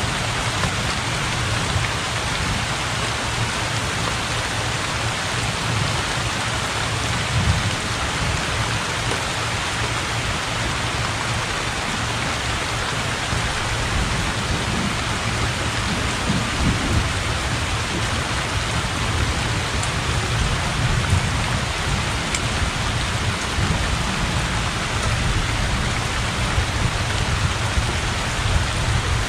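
Heavy rain pouring steadily onto open water, with low thunder rumbling underneath, strongest around the middle.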